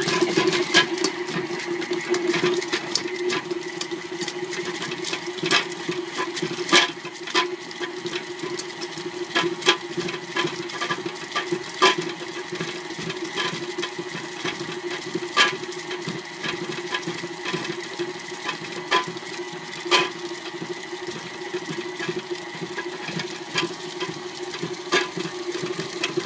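KitchenAid stand mixer running with its flat paddle beater, shredding cooked chicken: a steady motor hum with irregular clicks and knocks as the paddle beats the chicken pieces around the bowl.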